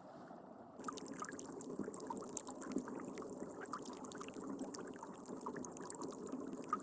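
A woodland stream running steadily, with many small scattered clicks and crackles joining in about a second in.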